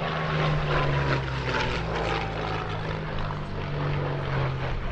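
Rolls-Royce Merlin V12 engines of propeller-driven WWII fighters flying past in a steady drone, with a faint whine that falls slowly in pitch in the first few seconds as an aircraft passes.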